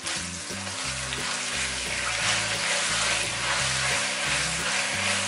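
Dried chillies, garlic and soy and oyster sauces sizzling in hot oil in a wok, stirred with a wooden spatula; the sizzle grows louder about two seconds in.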